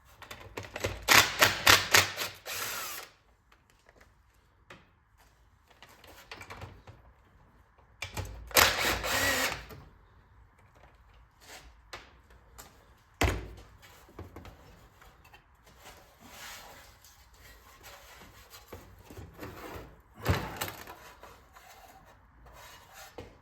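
Handheld power driver run in short bursts to back out the 7/16 bolts on the bottom of a Clinton 410 small engine: two longer bursts, a sharp knock, then a shorter burst near the end.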